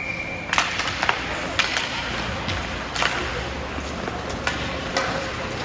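Ice hockey game sound in a rink: a steady whistle tone stops about half a second in, then several sharp clacks of sticks and puck over a steady haze of arena noise and skates on ice.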